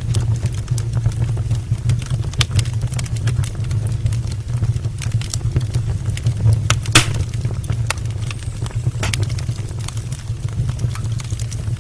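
Wood fire burning in an open brick fireplace: logs crackling with scattered sharp pops, one louder snap about seven seconds in, over a steady low rumble.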